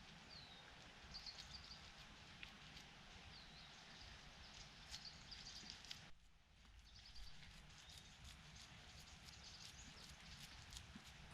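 Near silence: faint woodland ambience with scattered distant bird chirps.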